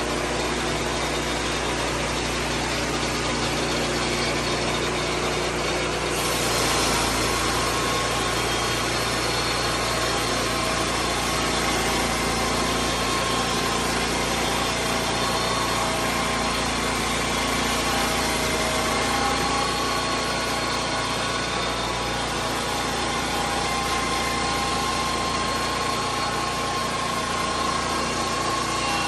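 Lucas Mill 10-30 swing-blade sawmill's engine running steadily. About six seconds in, the sound turns harsher with more hiss and stays that way.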